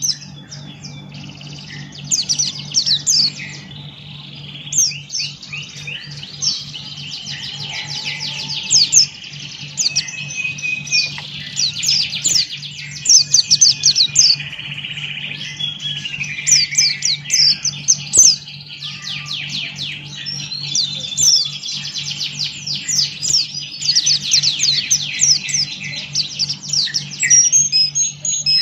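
White-eye (pleci, buxtoni type) in full song: a long, fast, near-continuous twittering of rapid high chirps and trills with only brief pauses. A steady low hum runs underneath.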